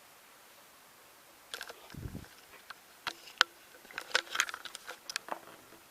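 Handling noise from the recording device: scattered sharp clicks and taps, with a short low thump about two seconds in and a busier run of clicks in the second half.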